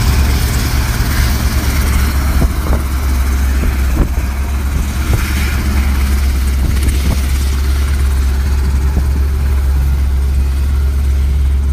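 An engine running steadily with a constant low drone, under a rushing noise and a few faint knocks.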